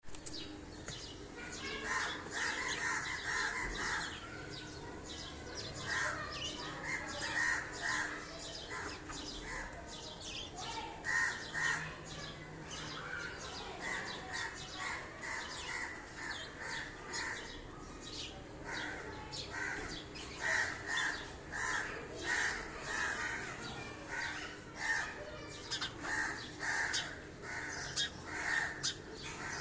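Sparrows chirping over and over, short harsh chirps coming in quick runs of several a second.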